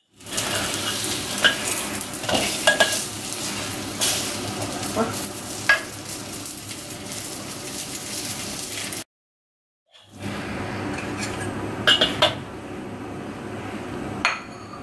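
Leek dumplings sizzling steadily as they fry in oil in a wok, with a metal spatula clinking and scraping against the wok several times as they are turned. The sound breaks off for about a second in the middle.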